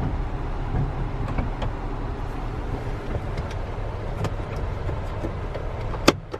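Steady low rumble of a vehicle running, with a few faint clicks and one sharp click near the end.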